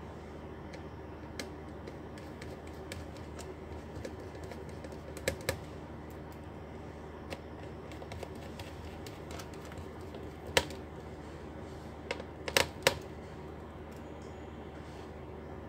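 Scattered sharp clicks and taps of small laptop parts and tools being handled during a repair, a few close together about five seconds in and several near the end, over a steady low hum.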